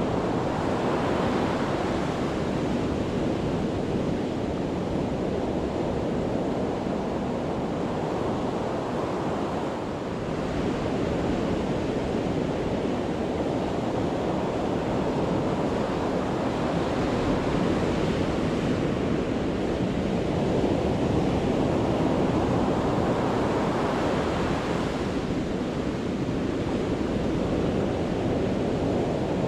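Sea waves crashing on the shore in a continuous rush of surf, with a few louder breakers swelling and fading.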